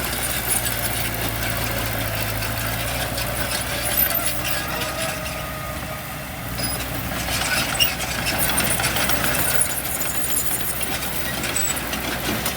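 Diesel engine of a heavy construction machine running steadily at low speed.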